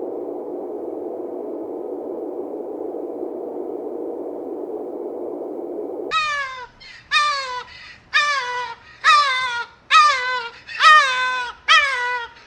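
A steady, rushing noise with no clear pitch for about six seconds. It cuts off, and a run of loud animal calls begins, about one a second, each one falling in pitch.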